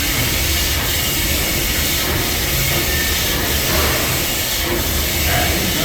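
Disney park steam train heard from on board: a steady hiss over a low rumble.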